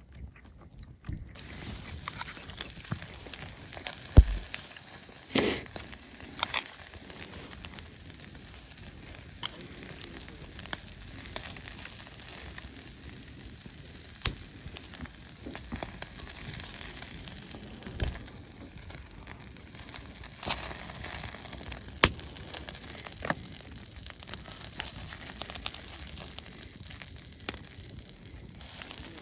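Food sizzling as it cooks, a steady hiss that starts about a second in, with scattered sharp pops and crackles.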